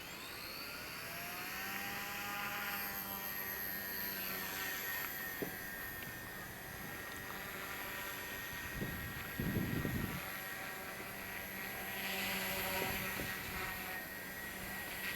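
XK K110 micro RC helicopter's brushless motor and rotor spooling up with a rising whine over the first couple of seconds as it takes off, then running at a steady pitch in flight. A brief low rumble comes about nine seconds in.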